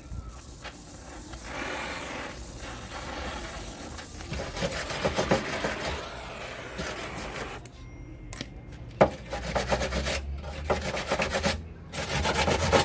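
Fast back-and-forth rasping strokes of something rubbed against a hard surface, with a short pause about eight seconds in and one sharp knock just after.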